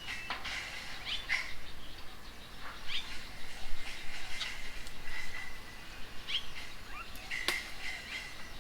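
Several birds chirping and calling, many short, quick rising chirps overlapping, with one sharp click near the end.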